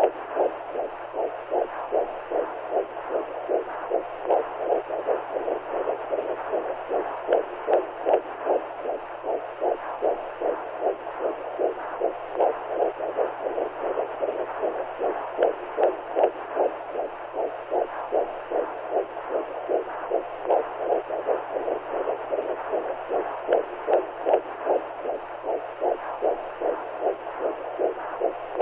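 Womb sound for soothing newborns: a rhythmic whooshing pulse like blood flow with a heartbeat, about two pulses a second, over a steady hiss. A faint low hum lies underneath.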